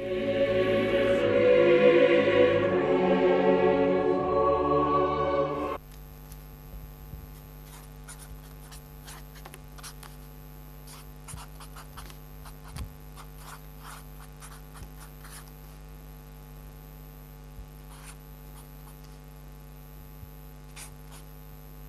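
Choir singing for about six seconds, cut off abruptly, then a steady low electrical hum with faint scattered clicks.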